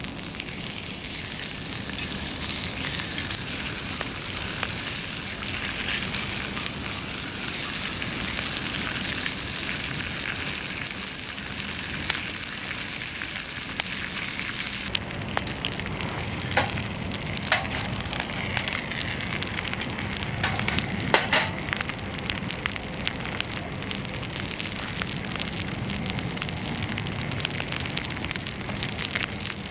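Chicken thighs sizzling in their fat on a thick iron griddle plate over a wood campfire. The hiss is dense at first and thins out about halfway. After that, scattered sharp pops and crackles come through.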